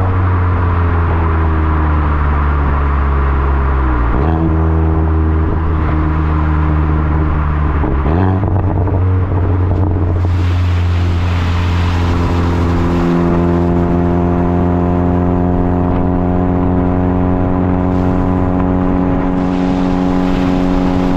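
Hyundai i20N's 1.6-litre turbocharged four-cylinder, heard close to the tailpipe through a Milltek exhaust while driving. The revs fall at first and dip sharply twice, about four and eight seconds in, then settle into a long, steady pull that slowly rises in pitch.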